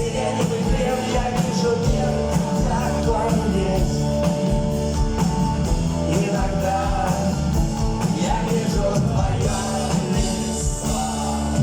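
Live rock band playing with electric guitar, bass and drums, with singing over it.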